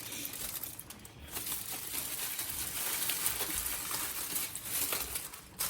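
Seafood paella sizzling and crackling in its pan as the rice keeps cooking, a steady hiss full of fine crackles; the rice is not yet done.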